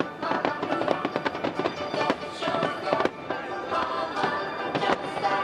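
A fireworks display set to music: aerial shells and low fountains bursting over and over with sharp bangs and crackle, while a music track plays steadily underneath.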